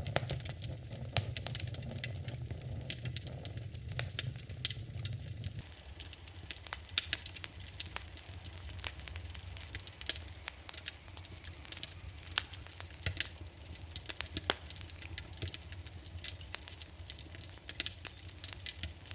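Wood fire in a fireplace crackling, with sharp pops at irregular intervals over a low rumble of flame. About six seconds in, the low rumble shifts abruptly and turns quieter while the crackling carries on.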